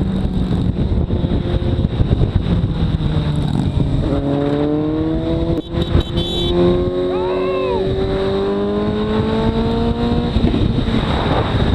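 Motorcycle engine running under load, its pitch rising steadily through the middle of the clip as it accelerates, over a loud rushing noise.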